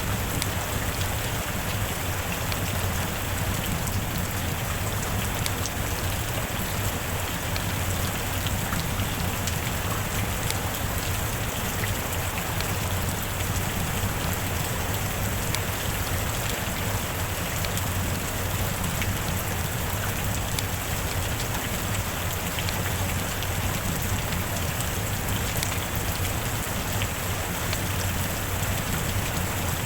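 Steady rain falling: an even, unbroken hiss with scattered drop ticks.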